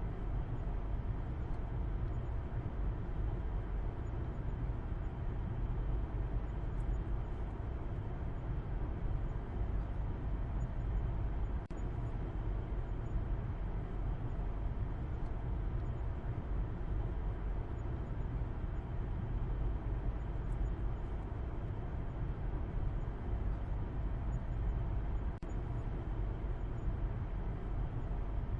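Car driving at a steady speed: a continuous, even rumble of engine and tyre noise, heaviest in the low end. The level dips briefly about twelve seconds in and again near the end.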